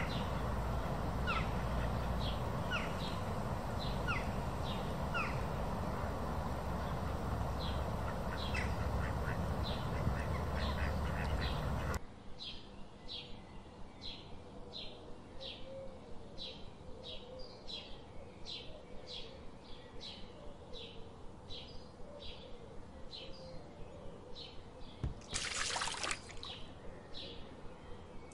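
Birds chirping: scattered short, falling high calls over a steady low hush, then a single bird repeating a short high chirp about twice a second over a quieter background. A brief burst of noise comes near the end.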